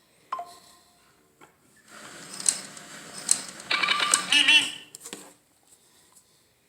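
A phone's ringtone plays its short melodic phrase once about four seconds in, repeating the ring heard just before, among clicking and rattling noise.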